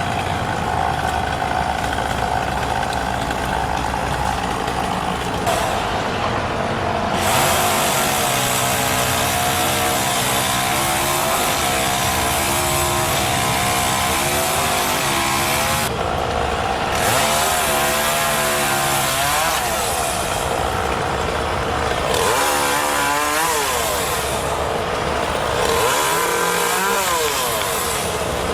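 Chainsaw engine running, steady at first, then from about seven seconds in revving with its pitch repeatedly rising and falling as it works under load.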